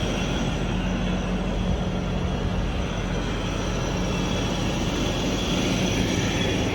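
Engine of a 1994 Toyota LiteAce truck running steadily.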